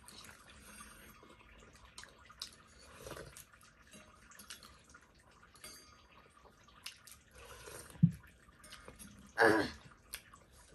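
Close-miked wet eating sounds of someone chewing momo dumplings: soft smacking and small clicks throughout. There is a sharp thump about eight seconds in and a brief voiced sound shortly after.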